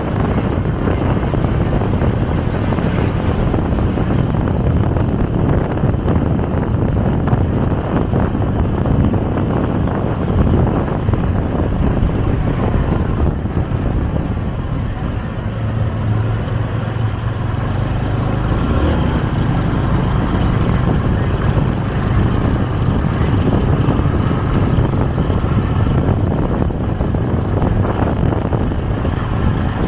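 Motorcycle taxi riding through traffic, its engine running under the rush of wind over the camera microphone. Around the middle the wind eases for a couple of seconds and the engine's low hum stands out.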